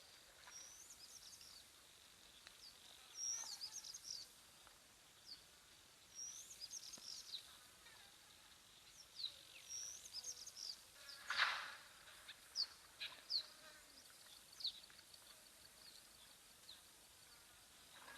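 Wild birds calling: short bursts of high chirping notes every few seconds, over a faint steady high insect tone. About eleven seconds in, a brief rushing noise stands out as the loudest sound.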